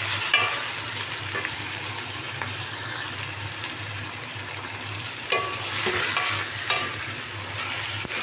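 Chicken pieces and sliced onions sizzling in hot oil in an aluminium pot. A spatula stirs them, scraping against the pot now and then, most often in the second half.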